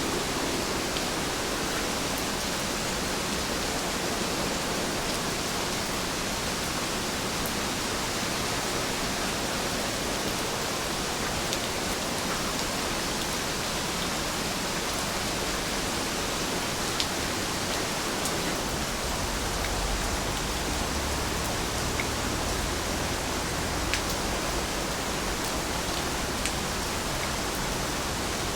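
Steady rain, an even hiss with a few distinct drops ticking through it. A low rumble comes in about two-thirds of the way through and fades a few seconds later.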